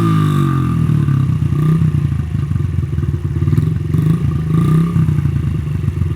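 2004 Honda CRF50's small single-cylinder four-stroke engine running on choke just after a cold start. The revs drop in the first half second and then settle into a fast idle that rises and falls slightly.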